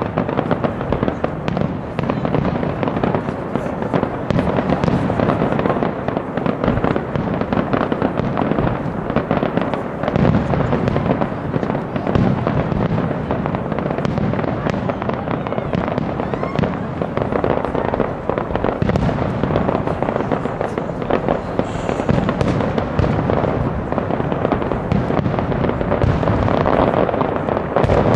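Aerial fireworks display: a dense, unbroken barrage of shells bursting, with booms and crackling overlapping throughout.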